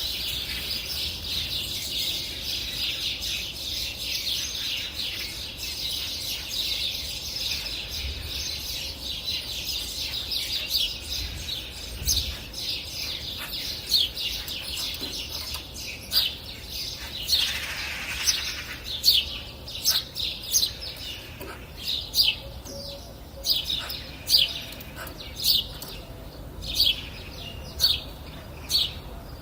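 Songbirds chirping: a dense, continuous high twittering through the first half, then a run of loud, sharp single chirps repeating about one to two times a second.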